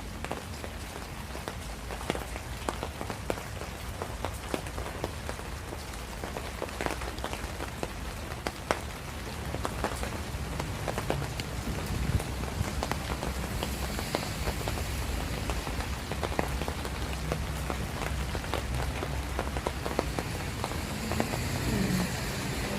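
Steady rain falling, with many separate drop hits ticking over a steady low rumble. It grows slightly louder about halfway through.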